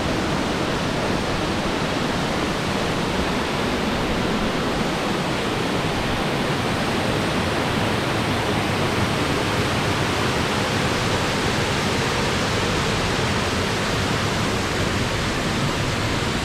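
Waterfall pouring down from a height, a steady, even rush of falling water.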